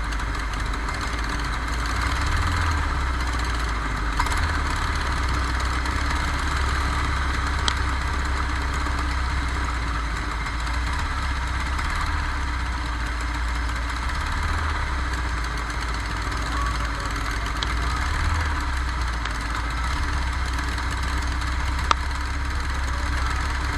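Kart engine running steadily with a low drone that barely changes in pitch, with a few sharp clicks.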